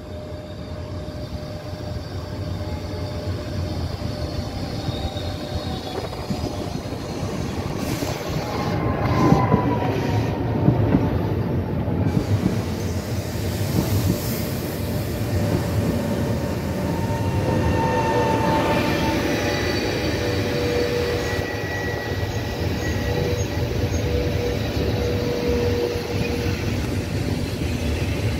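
Locomotive-hauled passenger train running into a station. The rumble of its wheels grows louder over the first ten seconds, and long squealing tones from the wheels and brakes come and go over it.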